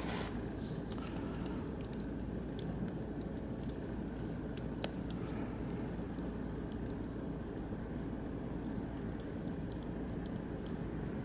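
Oak and beech wood fire burning in a barbecue grill, crackling with scattered sharp pops over a steady low rumble, with one louder pop about five seconds in.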